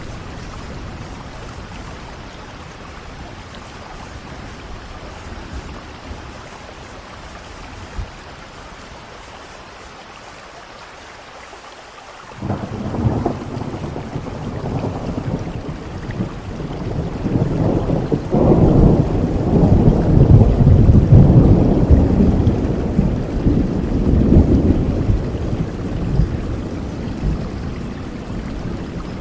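Steady rain falling, with a long roll of thunder that breaks in suddenly about twelve seconds in, builds to its loudest a few seconds later, and slowly rumbles away near the end.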